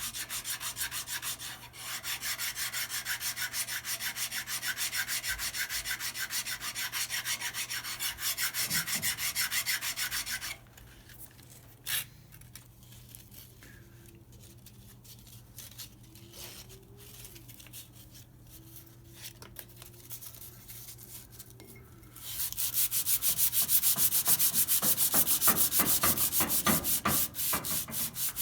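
Hand abrading of a steel brake-lathe seating surface with fast, even back-and-forth strokes, taking down high spots so the cutter head will seat flat. The strokes stop for about ten seconds in the middle, with a single click early in the pause, then resume louder near the end.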